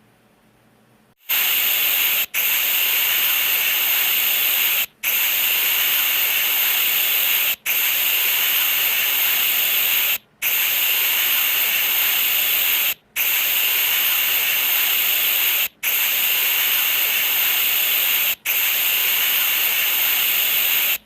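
A loud, steady hiss that starts about a second in and drops out for an instant about every two and a half seconds.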